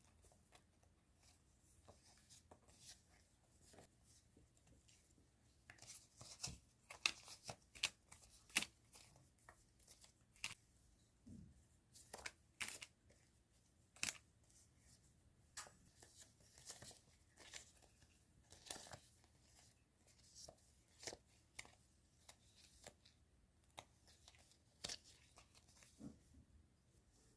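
Stationery packaging being handled: quiet rustling and crinkling of paper and plastic with small taps and clicks, busier from about six seconds in.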